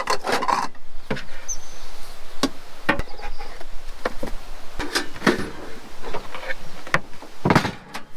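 Irregular knocks, taps and clatter of cooking gear and food being handled during supper prep, some of the taps sounding wooden.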